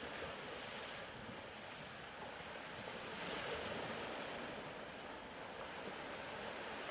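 Soft ocean surf sound bed: a steady wash of waves that swells gently a few seconds in and eases off again.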